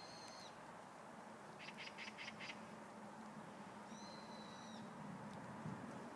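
Faint outdoor hiss with a bird calling: a drawn-out whistle on a steady pitch, a quick run of five short chirps about two seconds in, and another long whistle about four seconds in. A soft thud near the end.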